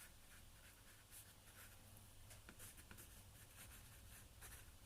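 Faint, irregular scratchy strokes of a paintbrush working acrylic paint on a canvas, over a low steady hum.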